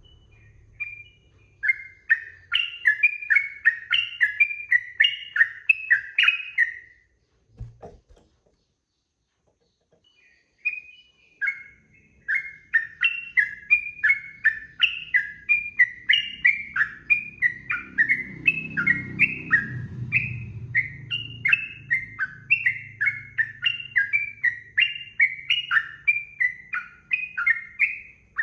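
Yellow-vented bulbul (trucukan) singing fast, unbroken runs of chattering notes: one run of about five seconds, a pause of a few seconds, then continuous song from about eleven seconds in.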